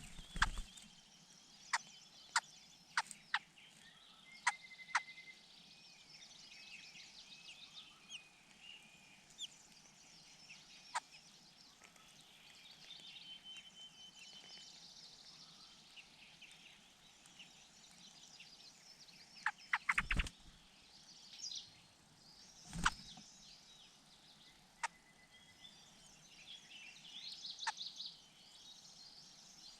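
Birds chirping and twittering at the nest, with short whistled notes, scattered sharp clicks, a burst of knocks about two-thirds in and one heavier knock a few seconds later.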